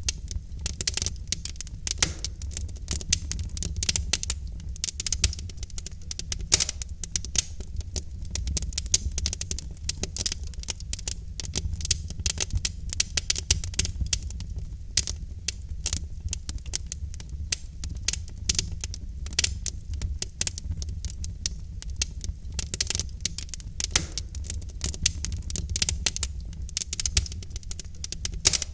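Wood logs burning in a fireplace, crackling and popping with many quick irregular snaps over a steady low rumble.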